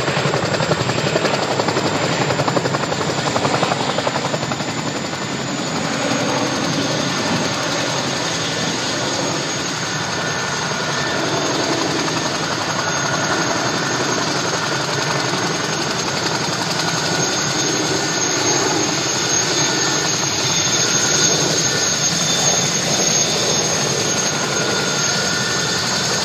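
Boeing CH-47 Chinook helicopter running close by: rotor beat under a high, steady turbine whine. The rotor beat is strongest in the first few seconds; about six seconds in the whine dips slightly in pitch and the sound settles a little quieter and steadier.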